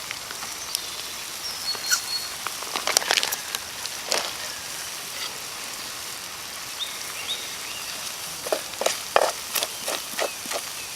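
Food sizzling in a steel frying pan, with scattered knocks and scrapes of stirring, several in quick succession near the end.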